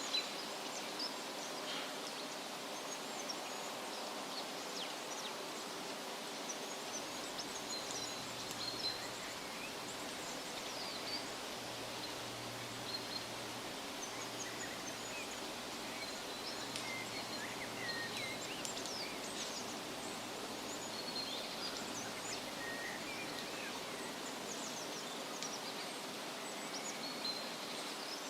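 Outdoor nature ambience: a steady background hiss with many short, high bird chirps and quick whistled notes scattered throughout.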